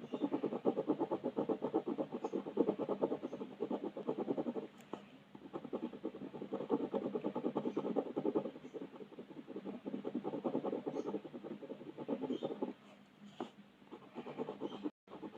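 Colouring strokes scratching rapidly back and forth on paper, in four runs of a few seconds each with short pauses between them.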